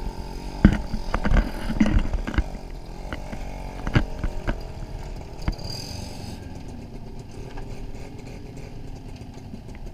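Small Yamaha motorbike engine running as it is ridden over a rough, cracked road, with sharp knocks and rattles from the bumps in the first couple of seconds and once more about four seconds in.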